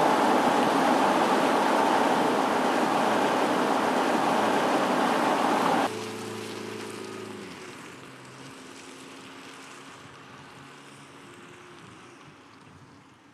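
Vehicle on the move: a loud rushing noise like wind and road noise that cuts off abruptly about six seconds in, followed by a much fainter engine hum with a few steady tones that fades away.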